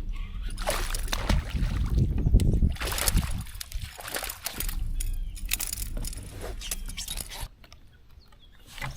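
Water splashing and sloshing around a kayak in a run of irregular bursts over a low rumble, dying down near the end.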